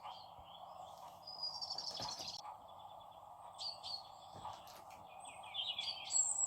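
Recorded countryside ambience played through a small Bluetooth speaker: birds chirping and trilling over a steady background hiss.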